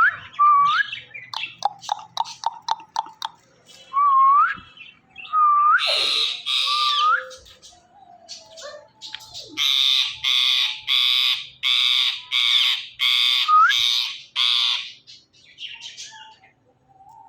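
Indian ringneck parrot calling: short rising whistled notes and a quick run of clicks, then a string of harsh squawks about one a second from around ten seconds in.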